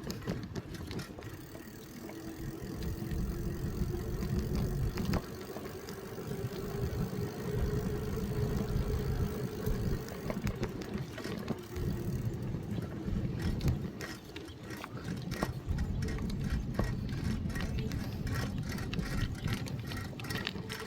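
Bicycle in motion: low rumble of wind on the microphone and rolling tyres, with scattered clicks and rattles from the bike through the second half.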